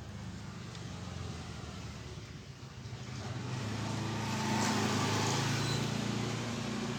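Steady, low-pitched mechanical hum of a running engine, growing louder about three to four seconds in and easing slightly near the end.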